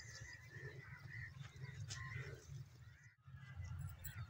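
Faint outdoor field ambience: distant bird calls over a low steady rumble. The sound drops out briefly about three seconds in.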